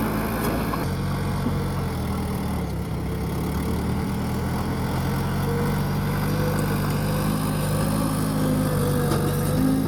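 Diesel engine of a small bulldozer running under load, its engine note shifting up and down a few times as it works.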